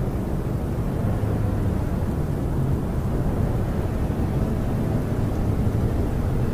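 Snowstorm wind blowing against a camper, heard from inside as a steady low rumble.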